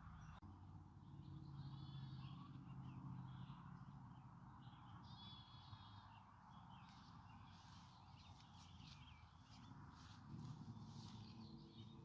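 Faint birdsong: many short chirps and a couple of buzzy trills from small birds, over a low steady hum.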